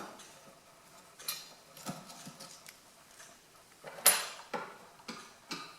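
A few scattered metallic clinks and taps from handling the wood heater's metal door parts, the loudest about four seconds in.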